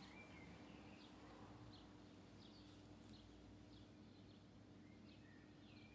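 Near silence, with faint bird chirps: scattered short, high, curving notes over a low steady hum.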